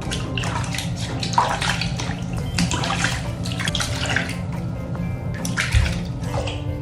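Water splashing and running in irregular bursts while a cat is washed, over background music.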